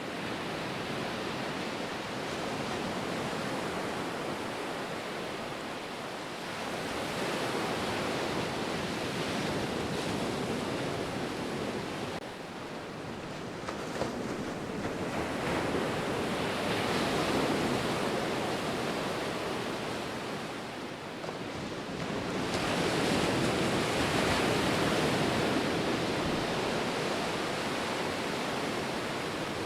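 Ocean surf: a steady rush of waves that swells and ebbs. Three broad surges of breaking water rise and fall back over several seconds each.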